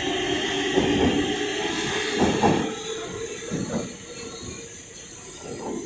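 Stockholm metro train running on the track, a rumble with a steady whine that is loud at first and dies down after about two and a half seconds.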